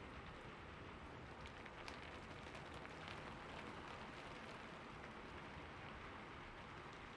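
Steady rainfall: an even hiss of rain on a surface, with scattered faint ticks of single drops.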